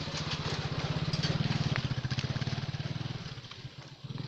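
Motorcycle engine running as it goes past: the sound grows louder to a peak about a second and a half in, then fades away.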